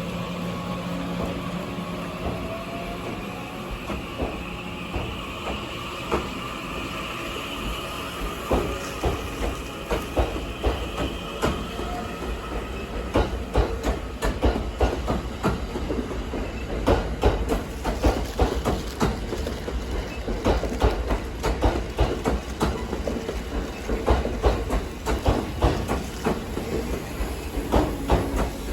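Train Suite Shiki-shima luxury train moving along the track, its wheels clacking over rail joints in ever closer groups as it gathers speed. A faint rising whine is heard at the start.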